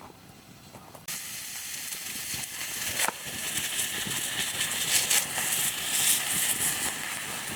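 Food sizzling on a hot grill, starting suddenly about a second in and continuing as a steady hiss with occasional crackles.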